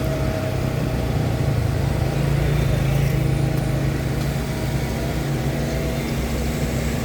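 Engine running steadily at a constant speed, a low steady hum with no change in pitch.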